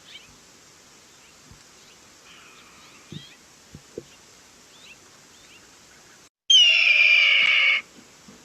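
Red-tailed hawk's scream: one loud call of a little over a second, falling slightly in pitch, about six and a half seconds in, over faint chirps of other birds in the recording.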